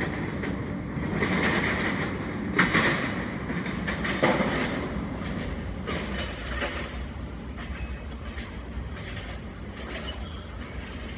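New York City Subway L train rumbling along the track, its wheels knocking over rail joints with a clickety-clack, the loudest knocks about two and a half and four seconds in, then easing off.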